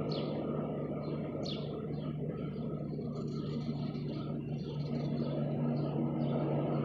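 Steady traffic rumble with a constant low hum underneath, and a few short, downward-sliding chirps from small birds at a feeder, two clear ones in the first couple of seconds.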